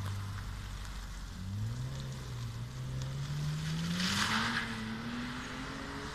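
Lexus IS200's 1G-FE straight-six running through a custom 89 mm stainless steel backbox, its engine note climbing steadily in pitch over several seconds under rising revs. A brief rushing hiss about four seconds in.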